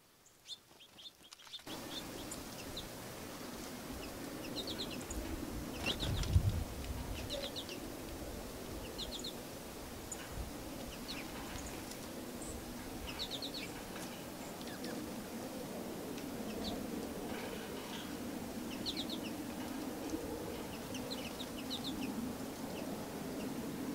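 Small birds chirping, with short high calls coming often and in quick little groups over a steady outdoor background hum. There is one low thump about six seconds in.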